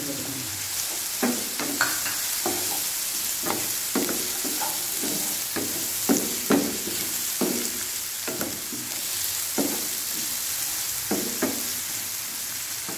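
Onions, green chillies and freshly added mint leaves sizzling in oil in a non-stick pan, stirred with a wooden spatula that scrapes and knocks against the pan about once a second.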